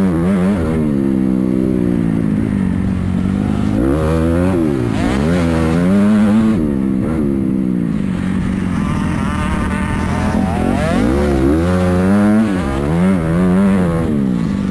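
Motocross dirt bike engines being ridden on the track, revving up and easing off over and over, with the pitch rising and falling several times over a steadier engine drone.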